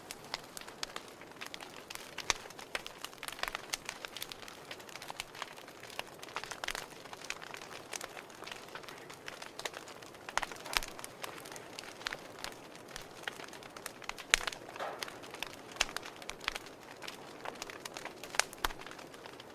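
Wood fire crackling: irregular snaps and pops of varying loudness over a soft steady hiss.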